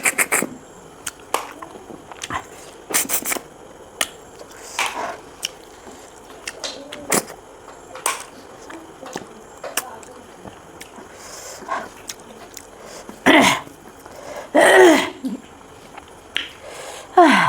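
Mouth eating sounds: quick wet clicks, smacks and sucking as snails are slurped from their shells and chewed, repeated irregularly. Two louder vocal sounds break in about thirteen and fifteen seconds in.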